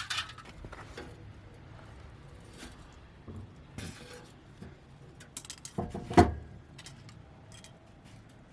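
Light metallic clinks and scrapes of a thin aluminium drink can being cut and handled, with a louder knock about six seconds in.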